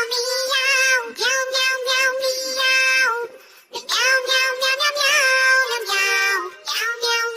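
High-pitched, child-like synthetic singing voice carrying a melody in phrases, with wavering held notes. It breaks briefly about three seconds in and again near the end.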